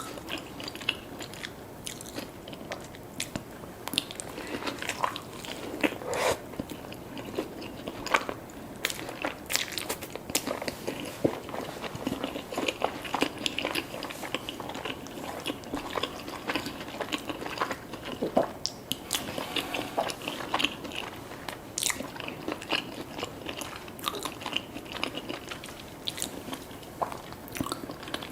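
Close-up eating sounds: crunchy bites and chewing, with many short crackles and clicks throughout.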